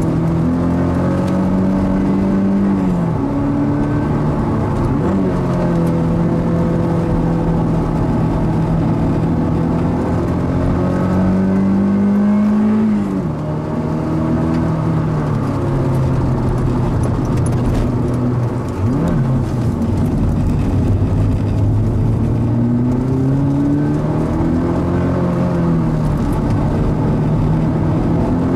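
Mazda NC Roadster's four-cylinder engine pulling hard on track, its note climbing through the revs over several seconds and dropping sharply at each shift or lift, about four times.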